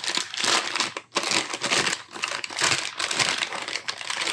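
Clear plastic bag crinkling as a new piston is pulled from its box and unwrapped, in irregular crackly handling noise with a short pause about a second in.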